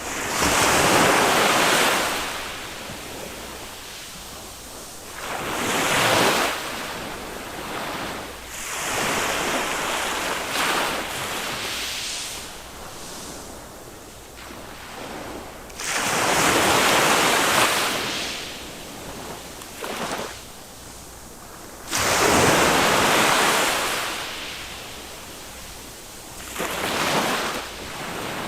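Small waves of a calm sea breaking on the shore, the hiss of surf swelling and fading every five or six seconds.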